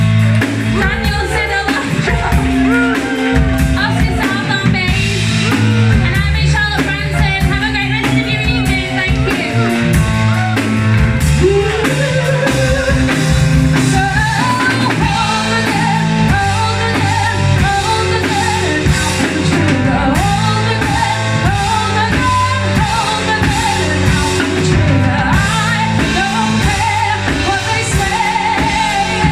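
Live rock band playing: a singer over electric guitar, bass and drum kit.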